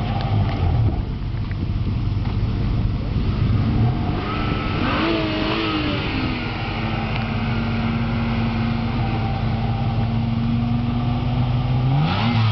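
BMW car engines at a standing start: revs rise and fall about four to six seconds in, hold at a steady pitch for several seconds, then a car accelerates hard near the end.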